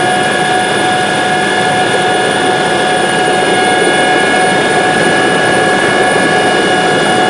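Helicopter in flight heard from inside the cabin: a loud, steady engine and rotor noise with a constant high whine over it.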